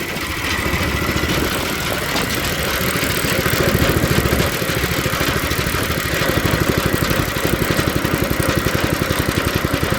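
Small 5-horsepower engine idling with a quick, even beat, running smoothly.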